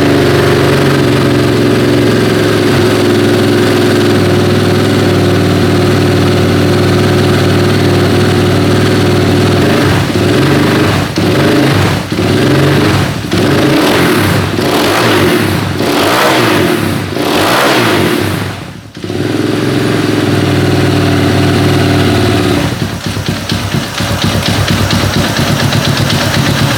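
Single-cylinder KTM 690 engine running on its Link ECU. It idles steadily, then is blipped on the throttle several times. About nineteen seconds in the sound briefly falls away before it settles back to a steady idle, and it runs more unevenly near the end.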